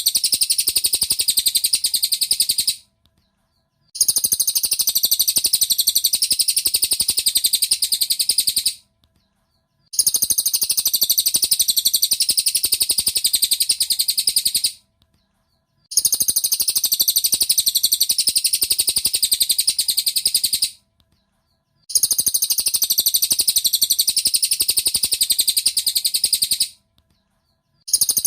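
Cililin bird song from a masteran recording: a high, rapid, unbroken twittering in stretches of about five seconds, each followed by about a second of silence, repeating evenly like a looped track.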